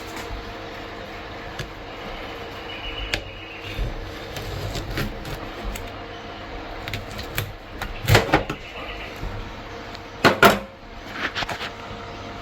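Handling noises: scattered clicks and knocks, two of them louder about 8 and 10 seconds in, over a steady low hum.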